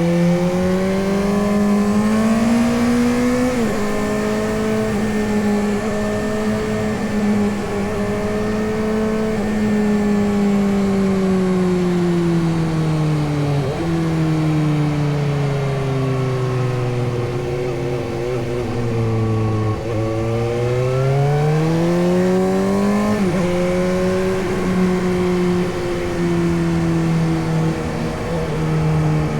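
Suzuki GSX-S750's inline-four engine running while riding, its pitch climbing and sinking with the throttle, with sudden steps in pitch three times as gears change.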